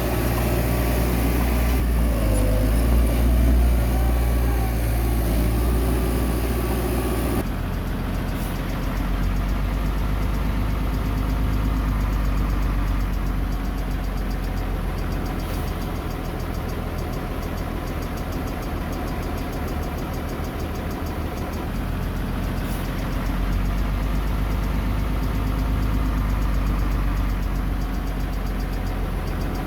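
Heavy diesel earthmoving machinery running steadily, its engine note changing abruptly about seven seconds in.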